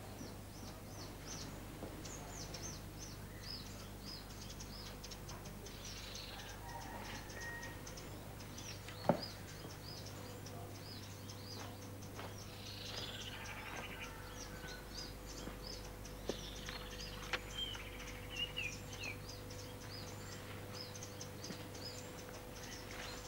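Birds chirping throughout, many short high chirps with a few longer warbling phrases in between, under a faint steady hum. A single sharp click about nine seconds in.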